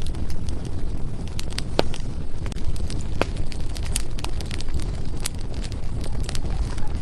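Firewood burning, with irregular sharp crackles and a few louder pops over a steady low rumble.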